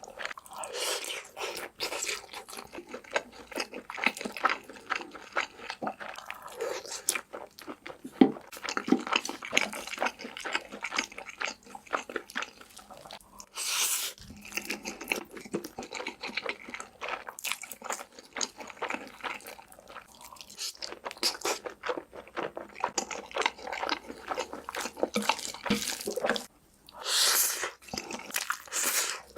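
A person eating: close-up chewing and crunching of food, a dense run of irregular crackles and clicks. Two louder rushing noises come about halfway through and again near the end.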